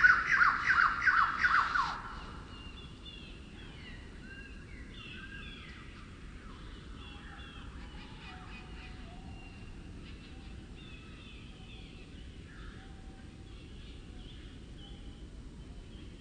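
Forest birdsong slowed down two and a half times, so the calls come out lower and drawn out. It opens with a loud run of quick falling notes for about two seconds, then several birds go on singing more quietly over a low steady background hum.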